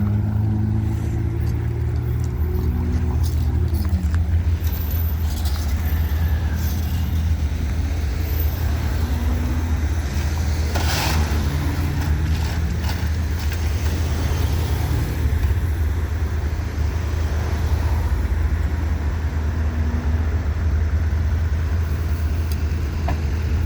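Motor vehicle engines running steadily, a constant low hum, with a brief rushing swell about eleven seconds in like a vehicle passing.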